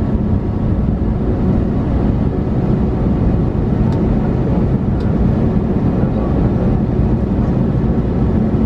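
Steady cabin noise aboard an Airbus A321neo: an even rumble and hum of the running engines and air system, with a couple of faint ticks about four and five seconds in.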